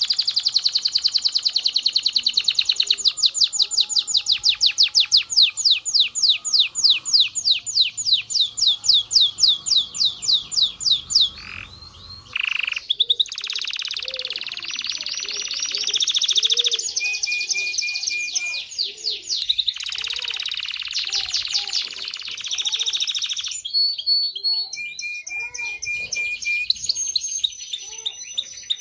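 Male canary singing a long song of rolling trills, one phrase straight after another. It includes a slower trill of distinct notes, about four a second, in the first half, and a brief break about twelve seconds in.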